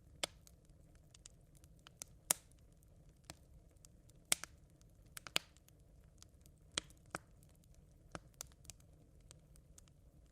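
Smouldering campfire embers crackling: scattered, irregular sharp pops and snaps over a faint steady hiss, the loudest about two and four seconds in.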